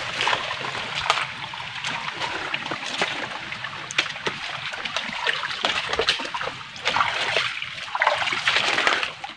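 Footsteps wading and splashing through a shallow, rocky stream, with irregular splashes and knocks over the steady rush of running water. The sound cuts off suddenly at the end.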